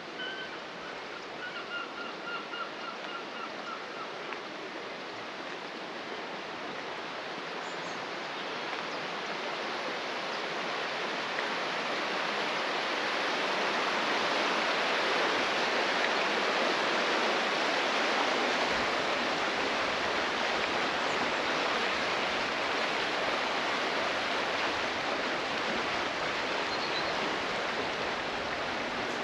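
Rushing water of a stream, a steady hiss that grows louder over several seconds and then holds. Near the start a bird gives a quick run of repeated notes.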